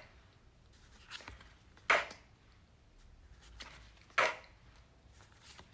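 A voice saying the pure phonics sound /k/ twice, about two seconds apart: each a short, unvoiced "k" release with a puff of breath and no vowel after it.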